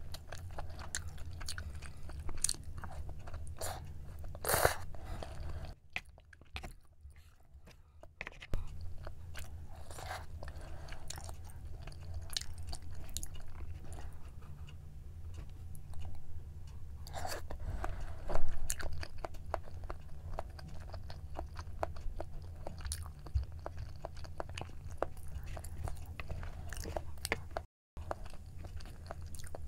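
Close-miked chewing and biting of braised chicken with glass noodles: wet mouth sounds and small clicks, with a short quiet pause early on and one louder smack a little past halfway. A steady low hum lies underneath.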